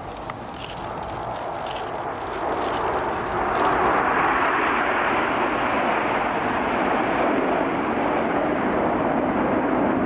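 A formation of Red Arrows BAE Hawk T1 jets flying past, heard as a steady rushing jet noise. It grows louder from about two seconds in and stays loud.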